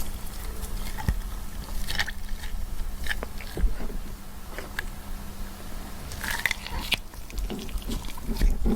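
Irregular crunching and crackling as something is cracked or peeled open by hand, with scattered sharp clicks and a denser burst of crackles about six seconds in.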